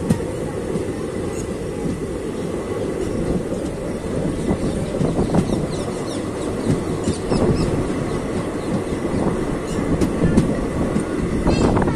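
Passenger coaches of an Indian express train rolling along the track, heard from an open coach doorway: a steady wheel-on-rail rumble with scattered clicks and a few brief, faint high wheel squeals.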